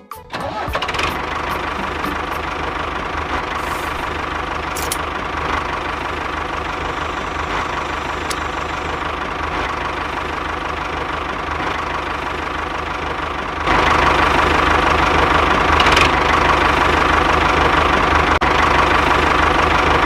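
An engine running steadily with an even mechanical hum. It comes in suddenly and steps up louder about fourteen seconds in.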